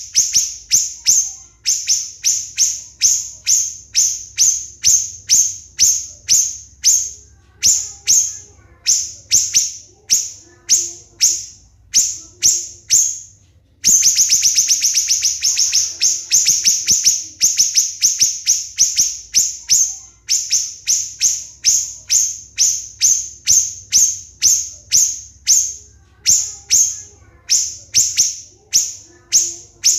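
Siri-siri bird singing its tight, high-pitched 'tembakan' shot notes, short piercing calls repeated two to three times a second. There is a brief pause about halfway through, then a faster, denser run of notes.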